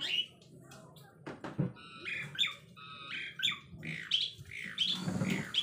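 Bird calls: a run of short, high chirps and squawks in quick succession, mostly in the second half.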